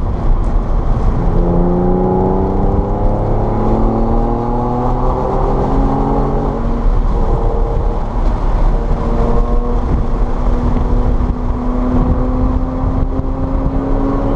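Car engine pulling hard under acceleration, its pitch rising steadily, with a gear change about halfway through and then rising again in the next gear, over a constant heavy rumble of road and wind noise.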